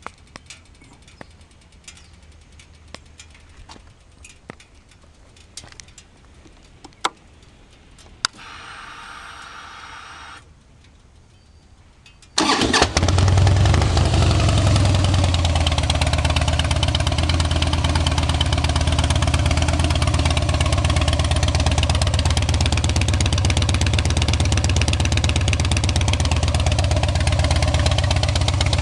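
2010 Harley-Davidson Heritage Softail's Twin Cam 96 V-twin with Vance & Hines slip-on mufflers being started. After a few faint clicks and a brief steady whir, it fires about twelve seconds in and settles into a loud, steady idle.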